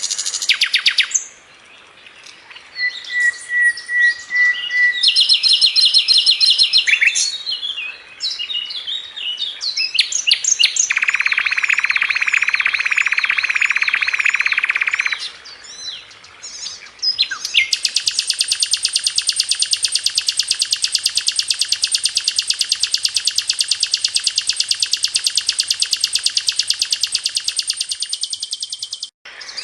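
Sikatan londo flycatcher singing a varied, chattering song of quick high phrases. It breaks into fast rattling trills, and in the second half holds one long, even, very rapid trill.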